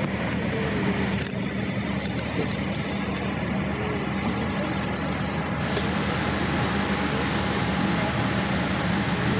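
Steady cabin noise inside a Boeing 787-8 airliner: an even rushing drone with a constant low hum, unchanging in level.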